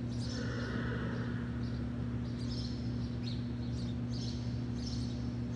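Small birds chirping in short, high calls every second or so over a steady low hum.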